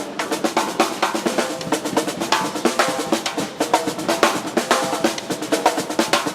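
Acoustic drum kit played fast: a dense, unbroken run of snare and bass drum strokes, several each second.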